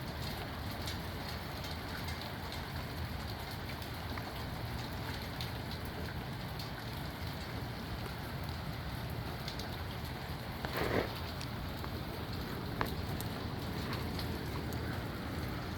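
Steady heavy rain in a strong wind storm, with a low rumble under it and scattered drops ticking close by. A brief louder splash about eleven seconds in.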